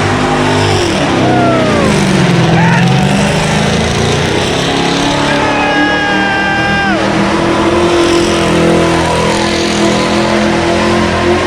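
Car engines revving at a street car meet, the engine note sweeping down and back up in the first few seconds, under a crowd's yelling and whooping. A long held shout rings out past the middle and drops off about seven seconds in.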